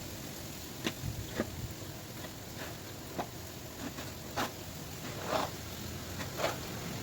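Snow crunching in short, irregular strokes, roughly one or two a second, over a steady background hiss.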